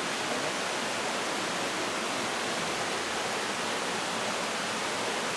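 Mountain valley stream, water rushing steadily over rocks as an even, unbroken noise.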